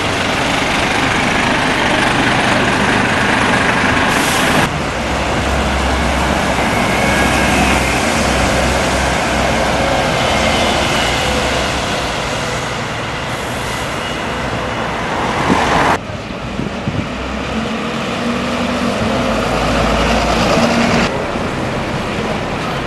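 Road traffic noise with a heavy vehicle's engine running. The sound changes abruptly about five, sixteen and twenty-one seconds in.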